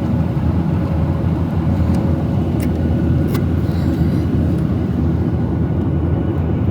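Steady low rumble of a Boeing 737-800's engines and airflow heard from inside the passenger cabin, with a couple of faint clicks in the middle.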